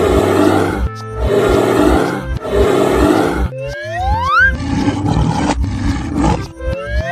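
Cartoon background music with a steady beat, over which three animal-roar sound effects come one after another, each about a second long. Then a rising whistle-like glide sounds twice, once about four seconds in and again near the end.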